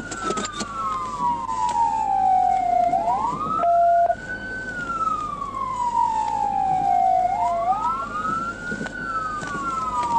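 Police car siren on wail: two wailing tones slightly out of step, each rising quickly and falling slowly over about four seconds. A short, steady beep cuts in about four seconds in.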